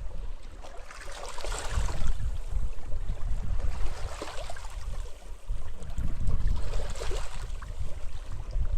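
Sea waves washing onto a beach, rising and falling in three swells of surf, over a constant low rumble of wind buffeting the microphone.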